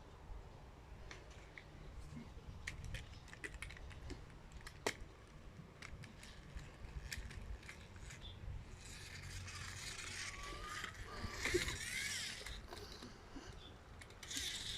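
Plastic toy pieces clicking and rattling as they are handled, with a louder stretch of scraping and rattling about nine to twelve seconds in.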